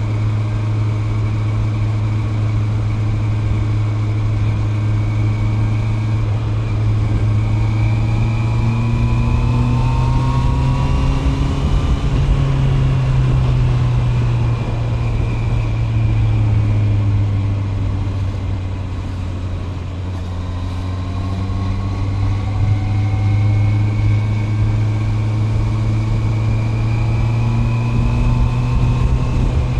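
Honda CB650R's inline-four engine running under way at a fairly steady speed. Its pitch climbs gently, drops off about two-thirds of the way through as the throttle eases, then climbs again near the end.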